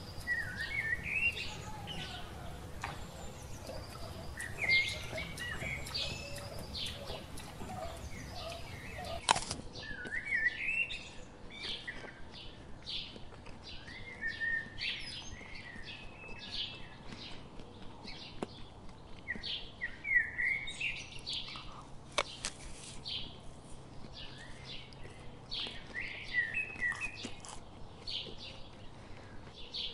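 Small birds chirping in short, repeated calls throughout, with a single sharp click about nine seconds in.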